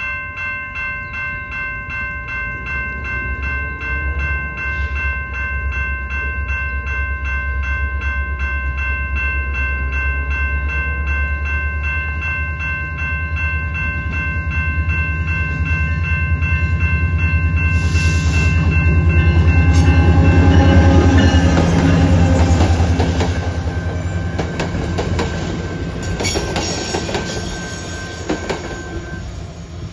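A CPKC train passing: a diesel locomotive's low rumble builds to its loudest about 21 seconds in and then fades, with wheel clatter as the cars go by. A steady ringing of several pitches, pulsing quickly, runs under it until about two-thirds of the way through.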